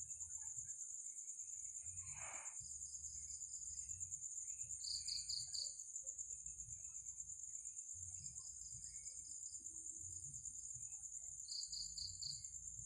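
Night insect chorus: a steady high-pitched cricket drone, with a second caller repeating short trills of rapid pulses every couple of seconds. A brief rustle about two seconds in.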